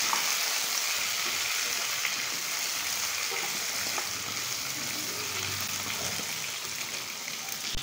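Pumpkin cubes frying in hot oil with onions in a steel kadhai: a steady sizzle that eases off slightly toward the end, with a few light scrapes of a wooden spatula stirring them.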